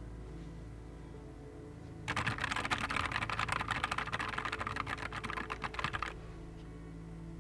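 Fast, continuous typing on a Nuphy Air 75 V2 low-profile mechanical keyboard: a dense run of key clicks starting about two seconds in and stopping about four seconds later.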